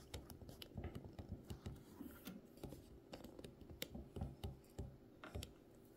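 Faint, scattered small clicks and light scratching of hands and a cleaning tool working around the metal parts of a vintage Kenmore sewing machine's bobbin winder.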